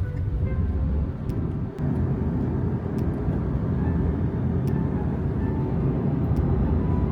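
Steady low rumble, with faint background music above it.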